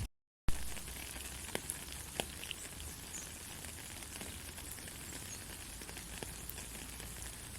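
Steady hiss of light rain with scattered drips ticking, broken by a brief moment of silence just after the start.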